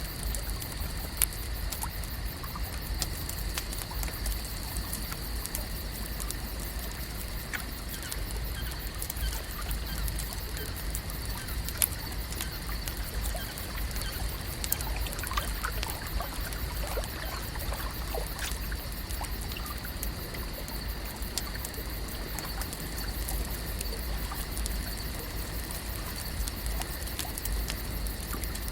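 Lake ambience: a steady trickle and lap of water, with a low rumble, scattered small clicks, and a few faint chirps about halfway through.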